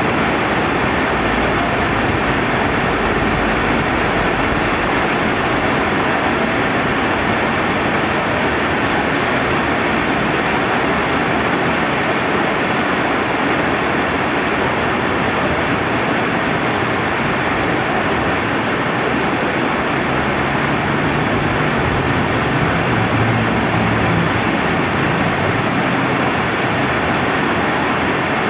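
Steady rain falling beside a flowing river, an even, unbroken wash of water noise.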